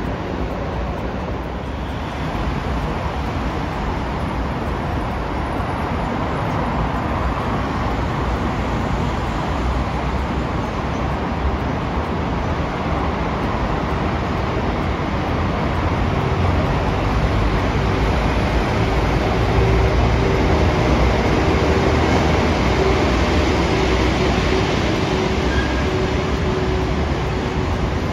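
A train running past on the line, its running noise swelling steadily, with a steady tone coming in about halfway through.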